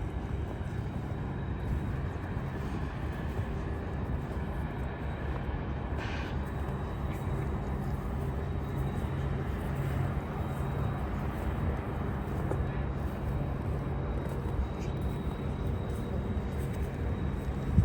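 Steady low rumble of city street traffic, with a brief higher-pitched sound about six seconds in.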